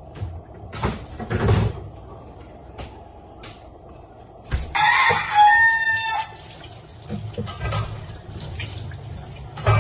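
A rooster crows once, a call of about a second and a half some five seconds in. A few soft knocks and clatter come before it.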